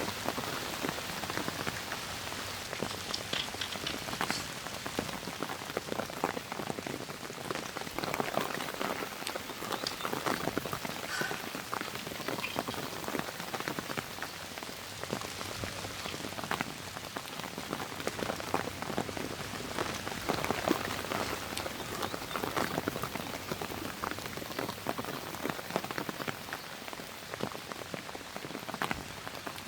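Steady rain falling, a dense scatter of individual drops striking a surface throughout.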